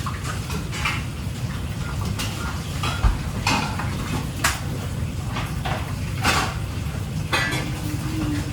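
Dishes, pans and metal utensils clattering in a restaurant kitchen: a string of irregular clinks and knocks over a steady low hum.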